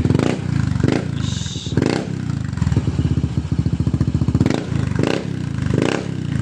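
Honda PCX 160 scooter's single-cylinder engine running through a freshly fitted Daytona GP taper slash racing exhaust, idling with about six short throttle blips. The exhaust note is loud and gruff.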